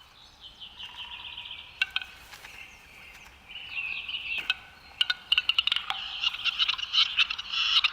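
Male capercaillie display calls: runs of rapid clicks and rattling notes, which grow busier about halfway through.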